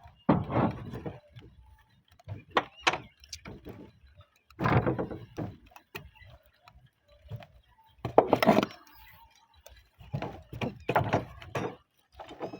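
Irregular knocks, thuds and scrapes from roof tiles being handled and fitted, with several louder half-second scraping bursts among lighter taps.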